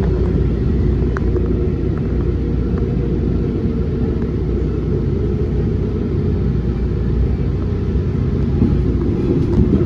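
MARC commuter train rolling along the track: a steady low rumble with a few faint clicks.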